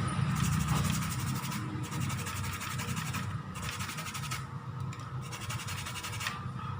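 A brush scrubbing a laptop motherboard during cleaning: a rapid scratchy rubbing that stops briefly several times.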